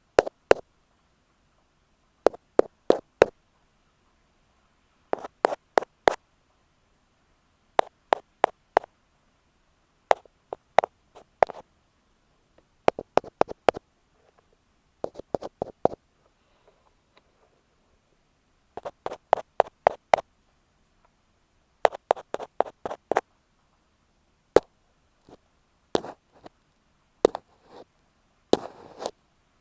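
Ear pick tapping directly on an earphone microphone: quick clusters of about four or five sharp taps every two to three seconds, with near-silent gaps between them. Near the end there is a short scratchy rub.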